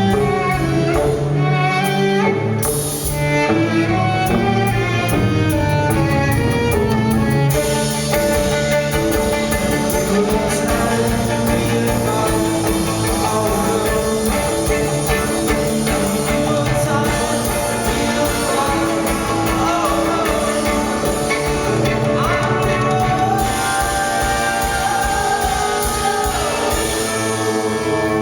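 Live band playing an instrumental passage of a song, violin lines over guitar with a steady beat, and sliding notes near the end.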